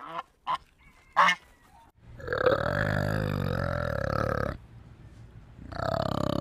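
Domestic geese honking three short times, then a flanged male orangutan giving a long, low, guttural call lasting about two and a half seconds, with a second one starting near the end.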